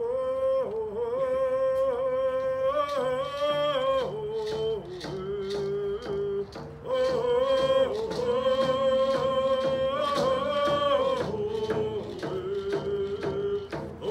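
A group of singers sing a birthday song in long held phrases over a steady beat, with a short break about six and a half seconds in.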